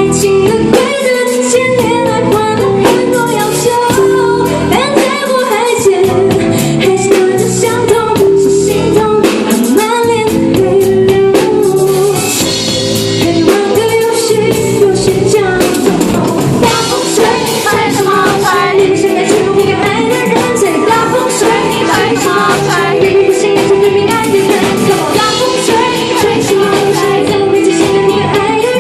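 A woman singing a pop song with a band playing drums and guitar.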